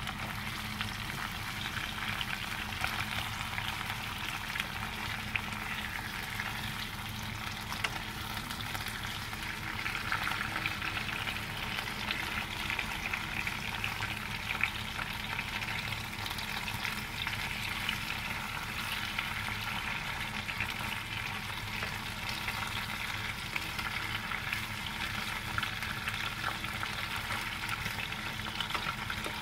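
Sliced tomatoes and onion sizzling steadily as they sauté in a pan, stirred with chopsticks that now and then tap against the pan.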